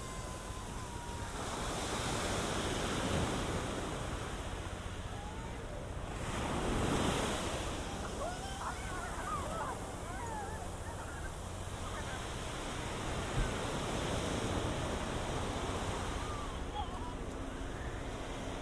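Ocean waves breaking and washing up a sandy beach, swelling twice, about two to three seconds in and again around seven seconds, with wind on the binaural microphones.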